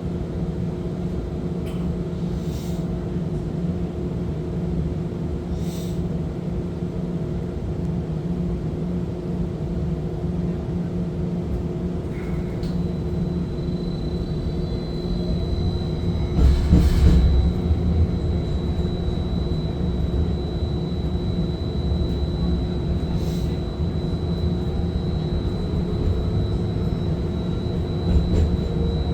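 Streetcar running along its track, heard from inside the car: a steady hum and rumble. About 13 s in, a thin high whine rises and then holds steady, and around 17 s in there is a brief louder rumble.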